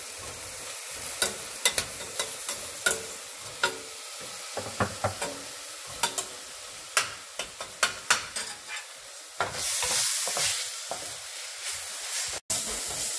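Onions frying in oil with a steady sizzle, while a metal spoon stirs and scrapes in a stainless-steel pressure cooker with many sharp clinks. From about ten seconds in, onions and ginger-garlic paste are stirred in a frying pan, and the sizzle is louder for a second or two.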